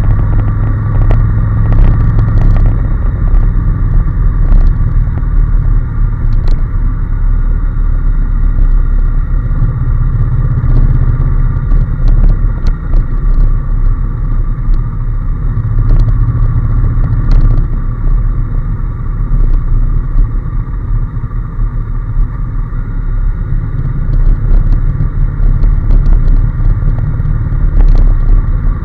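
Honda NC750S parallel-twin engine running at a steady road speed, with loud wind rumble on the microphone and occasional small knocks.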